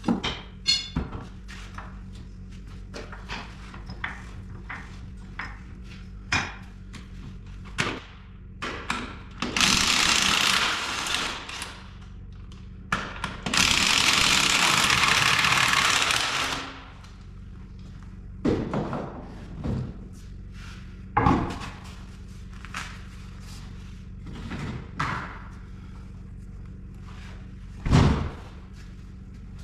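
Knocks, clanks and clicks of hand work on a tire, with two loud hisses of about two and three seconds in the middle, over a steady low hum.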